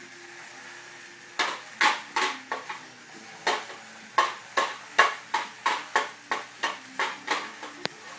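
A hard object tapping and clinking, about sixteen sharp strikes at two to three a second, starting about a second and a half in.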